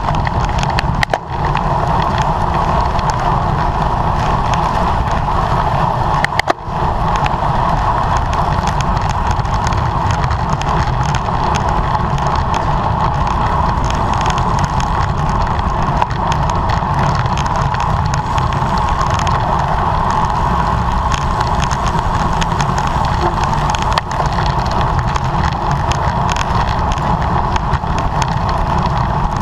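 Wind rushing over the microphone of a camera on a bicycle racing at speed, with tyre and drivetrain noise underneath; a loud, steady rush that briefly drops out about a second in and again about six seconds in.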